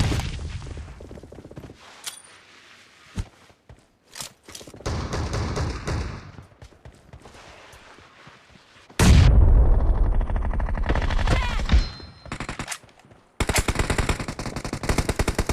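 Video-game gunfire: scattered shots and short bursts, a loud sustained burst about nine seconds in, and rapid automatic fire in the last two seconds.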